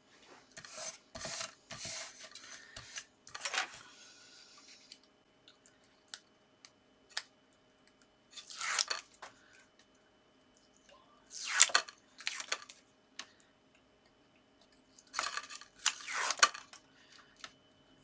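Card stock and double-sided tape being handled: paper rubbing and crinkling with short tearing and peeling sounds, in several separate bursts.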